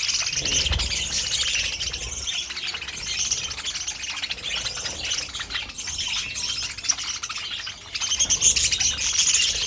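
Budgerigars chirping continuously in quick, high chatter, with a brief lull near the end before it picks up louder again.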